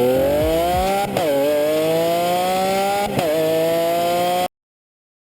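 2017 Acura NSX's twin-turbocharged V6 engine accelerating hard, rising in pitch through the revs with two quick upshifts, about one second and three seconds in, then cutting off suddenly.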